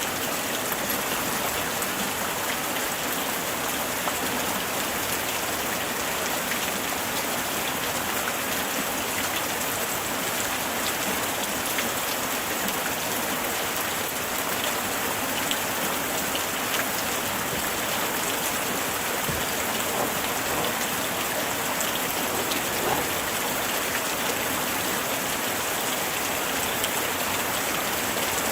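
Light rain falling steadily, a dense patter of fine drops hitting surfaces.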